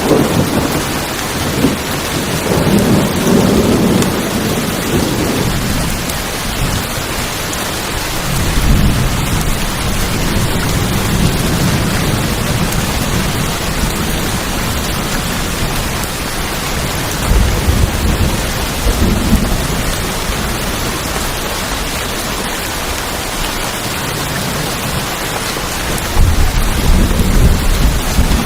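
Steady heavy rain falling on tin roofs, with low rolls of thunder rising and fading several times.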